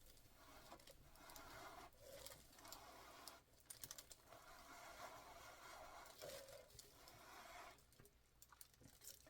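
Faint, repeated blowing of air over wet pour paint, used to push the white layer aside and open blooms. It comes as soft hissing stretches of one to two and a half seconds with short breaks between them, and a few light clicks.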